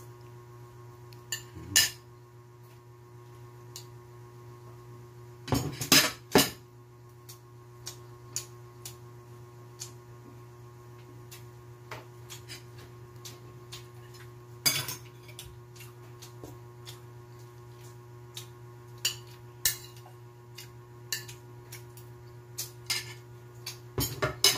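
Spoon and fork clinking and scraping on a ceramic plate during a meal of mussels and rice: irregular clinks, the loudest a quick run of three about six seconds in, over a steady low hum.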